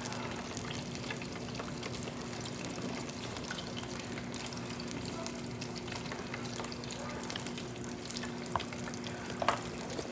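Beer-battered seafood deep-frying in hot oil: a steady crackling sizzle, with a faint steady hum underneath and a couple of small clicks near the end.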